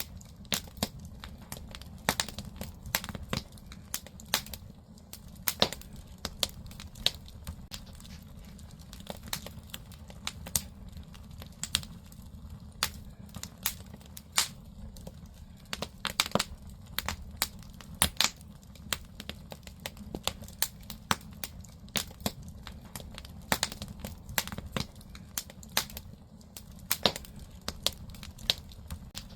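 Firewood burning in a traditional Korean agungi firebox: irregular sharp crackles and pops from the logs over a low steady rumble of the fire.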